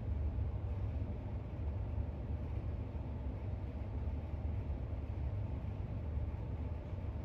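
Steady low background rumble, even throughout, with no distinct sounds such as page turns standing out.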